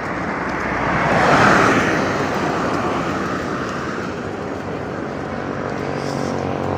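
Road traffic: a passing vehicle's tyre and engine noise swells to a peak about a second and a half in, then slowly fades.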